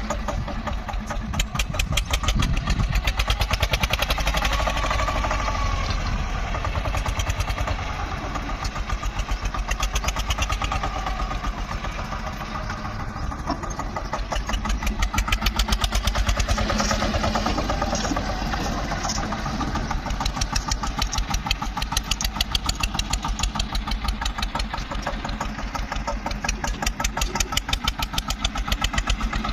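Tractor's diesel engine running with an even, pulsing beat, getting louder twice: a second or so in and again around the middle.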